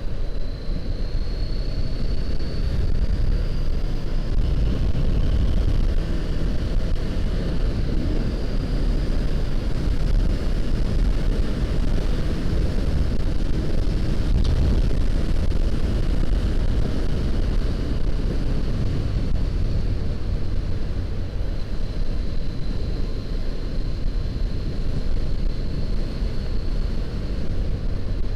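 Wind rushing over the action camera's microphone on a moving motorcycle, over the 2014 Honda CBR500R's parallel-twin engine running at road speed. The engine's pitch climbs gently over the first few seconds as the bike accelerates, then holds steady.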